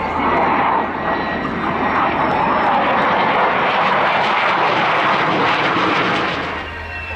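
A Soloturk F-16 fighter jet's engine noise, a loud steady roar that eases off near the end.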